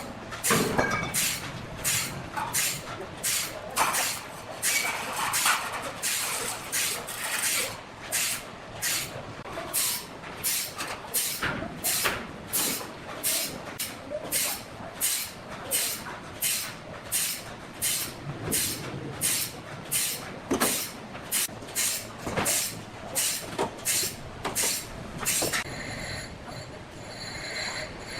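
Rhythmic rasping strokes of a tool working wood, about two a second, stopping about 25 seconds in.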